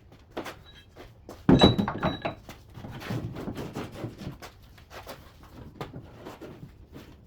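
Knocks and one loud clunk with a brief metallic ring about a second and a half in, followed by a few seconds of scraping and rattling: heavy gear being handled at the back of a truck.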